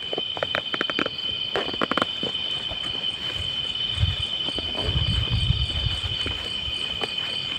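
Night insects, crickets, chirring in a steady high even tone, with a few clicks early on and low thumps and rustles from about four seconds in.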